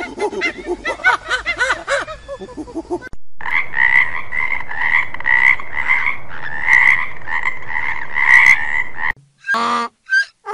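A frog's loud pulsed trill, pitched high and steady, swelling and easing in repeated phrases for about six seconds. Before it come about three seconds of wavering, rising-and-falling gibbon calls. After it, near the end, come short honking bray notes from a Somali wild ass.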